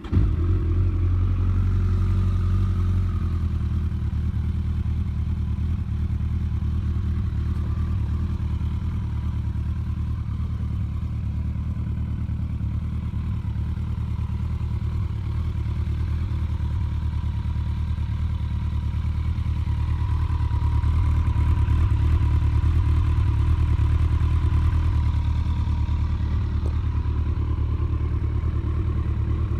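Kawasaki ZX-14R inline-four engine breathing through an aftermarket full-titanium slip-on muffler, starting up suddenly and then idling steadily, its idle rising slightly about two-thirds of the way through.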